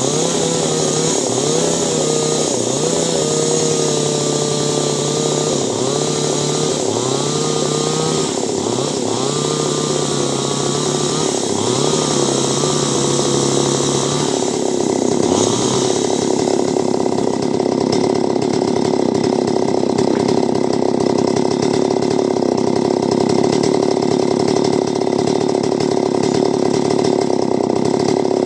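Two-stroke chainsaw cutting clove-tree wood. For the first half, its engine speed dips and picks up again every second or two. It then runs steadily at high speed.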